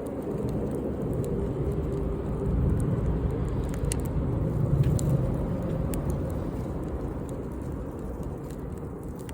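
Bonfire burning: a low steady rumble of flames with scattered sharp crackles and pops, the rumble swelling a little mid-way.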